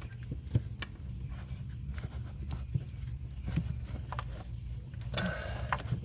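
Scattered light clicks and knocks of a metal wiring-harness guide and hardware being worked into place in a cramped engine bay, over a steady low hum.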